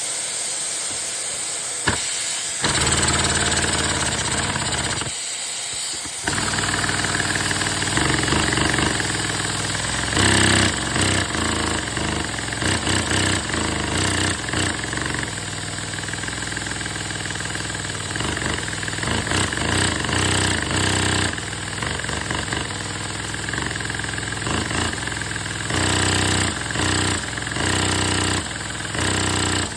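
LEGO inline-twin vacuum engine running fast on a vacuum cleaner's suction: a steady rush of air with a rapid plastic clatter from the pistons and valves. Its speed surges and drops several times.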